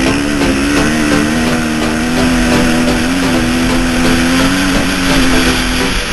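Motocross bike engine running at high revs, its pitch wavering and then held nearly steady before it stops near the end.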